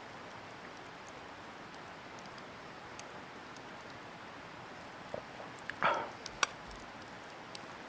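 Wood campfire burning with a steady soft hiss and scattered sharp crackles and pops, and one louder, brief noisy sound about six seconds in.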